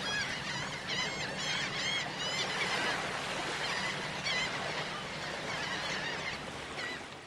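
Birds calling repeatedly in short, arched cries over a steady background rush and low hum, the calls thickest in the first couple of seconds.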